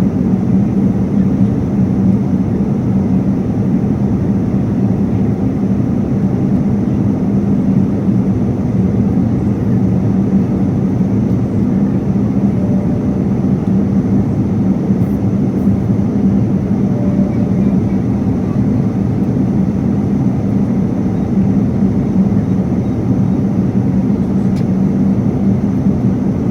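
Steady cabin noise of a passenger jet in flight: an even rush of engine and airflow noise with a constant low hum running under it.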